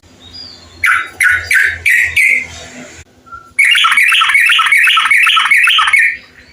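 Bulbul song: a few quick bright notes about a second in, then a loud, fast run of about ten repeated notes, some four a second.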